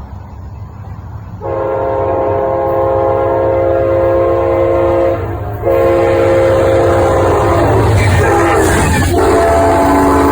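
Train horn sounding a chord of several notes over the low rumble of the train: one long blast from about a second and a half in, a brief break just after five seconds, then a second blast that runs on.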